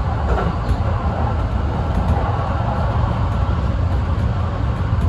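Kintetsu express train running at speed, heard on board: a steady low rumble of wheels on rail and running gear, with an even hiss of rolling noise above it.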